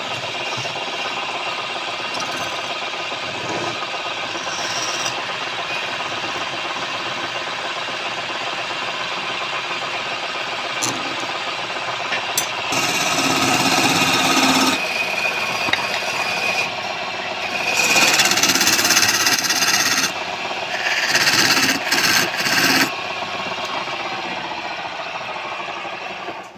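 Wood lathe running with a steady motor hum, with the spinning wood being worked in three louder scraping passes from about halfway through.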